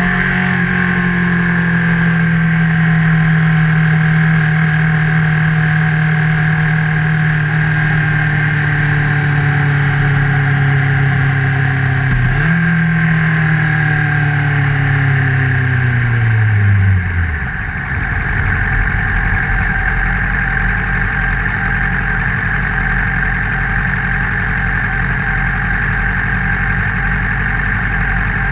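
Honda CBR1000RR inline-four engine, heard through a GoPro mounted on the bike. The engine note falls slowly as the bike slows, jumps up briefly about twelve seconds in, then drops away about five seconds later into a steady low rumble with road and wind noise.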